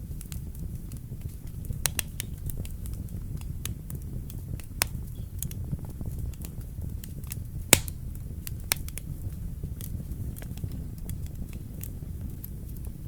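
Wood fire burning in a fireplace: a steady low rumble of flames with irregular sharp crackles and pops, the loudest pop about two thirds of the way through.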